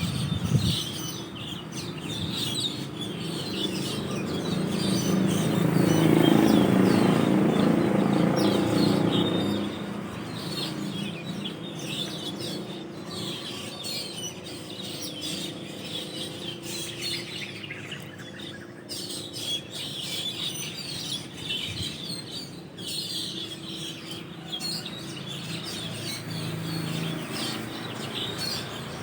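A flock of Asian glossy starlings chirping continuously in a roost tree, many short overlapping calls. A low rumble swells and fades about four to ten seconds in.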